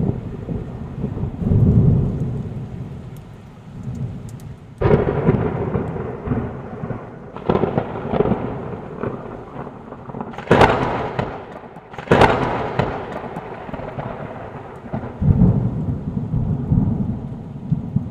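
Thunder in a rainstorm: low rolling rumbles, broken by several sudden cracks of close thunder, the loudest two about ten and twelve seconds in, each trailing off into rumble.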